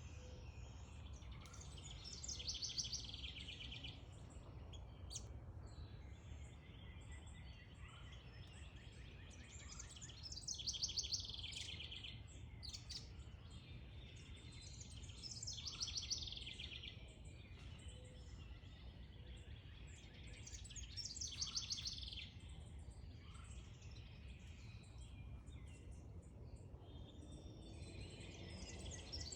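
A small songbird singing a short, rapid, high trilled phrase, repeated about every five to eight seconds, over a steady low background rumble.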